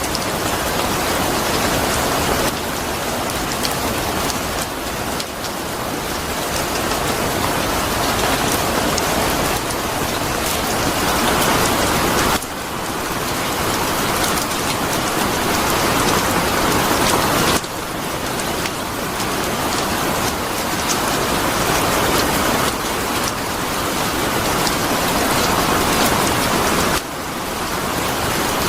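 Steady rain falling, a dense even hiss of many drops. The level drops suddenly about four times and then builds back up.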